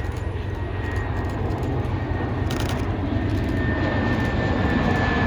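Lockheed Martin CC-130J Hercules' four turboprop engines droning steadily as it flies past, growing louder as it approaches.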